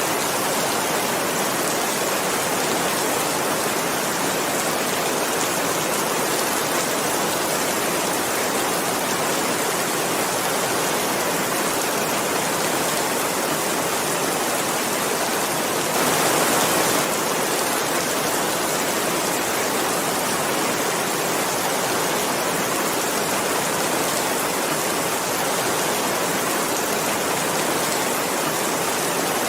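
Steady, even rain falling, with one slightly louder swell lasting about a second a little past the middle.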